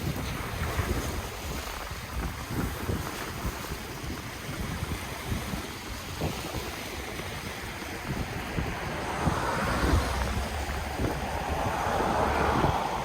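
Ocean waves breaking and washing on the shore, with wind gusting against the microphone. A wave builds and surges louder in the last few seconds.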